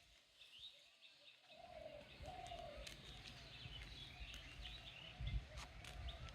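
Faint birdsong: small birds chirping in short high notes, with a few lower drawn-out calls about two seconds in, over a low rumble.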